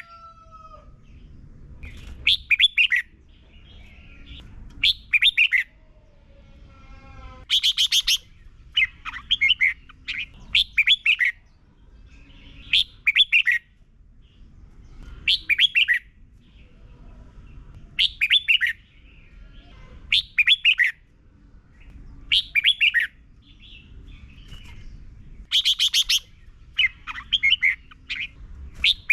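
Red-whiskered bulbul singing short, loud, rapid phrases of chirpy notes, repeated about every two and a half seconds. This is the doubled song style that keepers play to caged bulbuls for them to copy.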